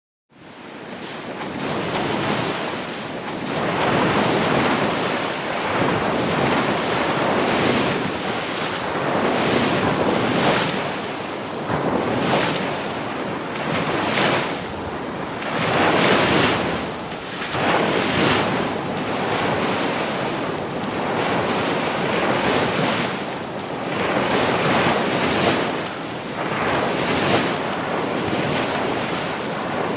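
Ocean surf washing ashore: a steady rushing of waves that swells and eases every couple of seconds. It comes in from silence and builds up over the first two seconds.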